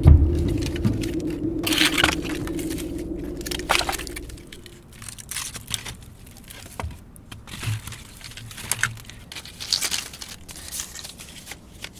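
Intro music with a deep drum fades out about four seconds in. Then come irregular crackling and tearing rustles of dry plant material, such as dry cattail leaves being handled.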